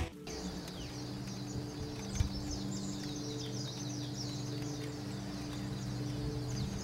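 Many small birds chirping in quick, continuous twitters over a steady low hum, with a single short knock about two seconds in.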